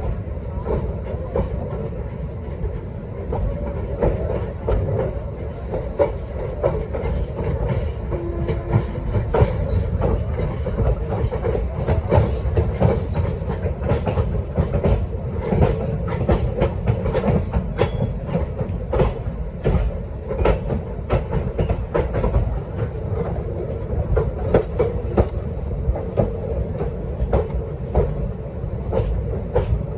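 Train running on the rails: a steady low rumble with the wheels clacking over rail joints again and again.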